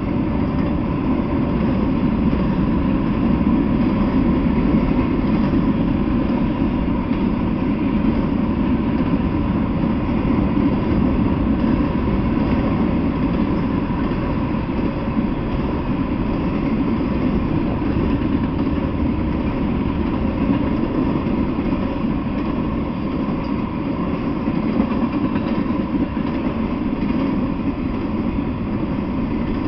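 Freight train of intermodal containers, truck trailers on flatcars, boxcars and covered hoppers rolling past: a steady, unbroken rumble of wheels on rail.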